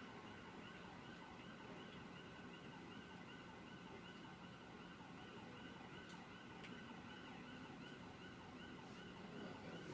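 Faint police car siren sounding in a quick, repeating rise and fall.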